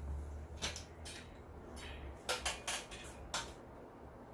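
A few light clicks and knocks of small tools or parts being picked up and handled on a workbench, over a low steady hum.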